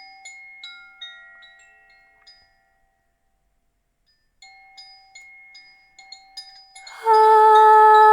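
Soft, sparse strikes of small chimes, each note ringing out and fading; they stop for about two seconds, then resume. About seven seconds in a much louder, steady held note begins, a voice sustaining one tone.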